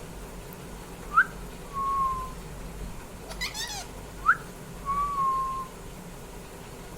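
Parrot whistling a two-part whistle twice: a quick rising note, then a held, slightly falling note. A short chirp comes between the two whistles.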